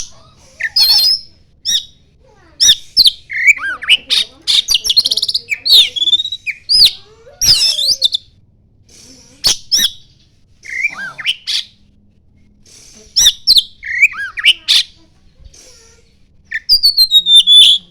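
Oriental magpie-robin (kacer) singing in loud phrases of whistled glides, chatter and sharp clicks, broken by short pauses, its song mixed with imitated common iora (cipoh) calls. A run of falling whistles comes near the end.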